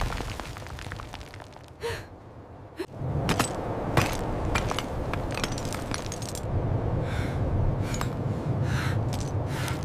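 Ice cracking in a string of sharp snaps over a steady low rumble. The rumble sets in about three seconds in.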